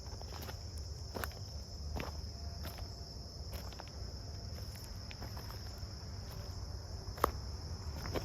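Footsteps on the dry rocky bed of a creek, one step about every three-quarters of a second, with one sharper step near the end. A steady high-pitched insect trill runs underneath.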